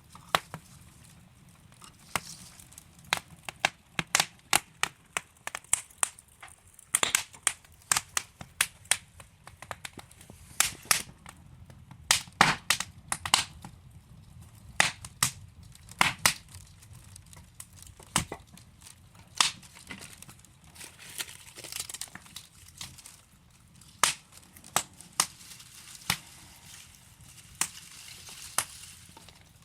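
Wood fire of burning logs crackling, with irregular sharp pops and snaps, thickest in the middle stretch, over a faint low rumble of the flames.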